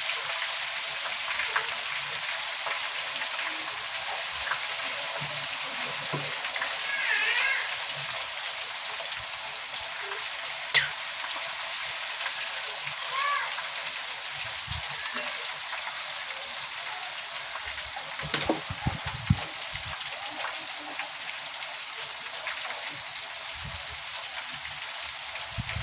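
Breaded chicken pieces frying in hot canola oil, a steady sizzle, with a few light clicks over it.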